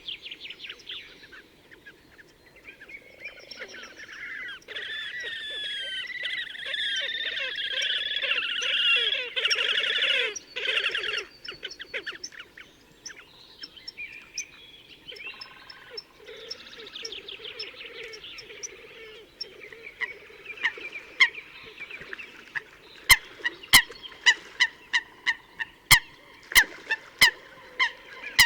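Slavonian grebes calling: rapid, high trilling calls that are loudest and densest for several seconds near the start, then thinner scattered calls. In the last few seconds comes a series of sharp clicks, about one or two a second.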